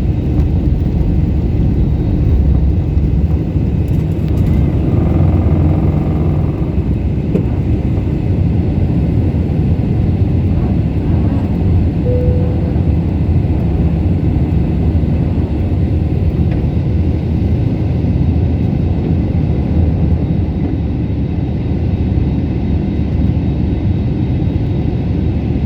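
Steady low rumble of an airliner's engines and airflow during the climb after takeoff, with a short faint tone about twelve seconds in.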